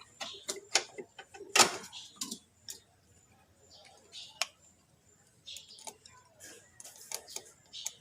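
Irregular sharp clicks and taps with a few short scrapes: hand tools and small parts being handled during work on a starter motor, loudest about one and a half seconds in.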